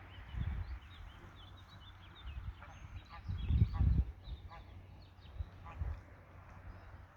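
Greylag geese honking several times, over a low rumble that is loudest a little past the middle.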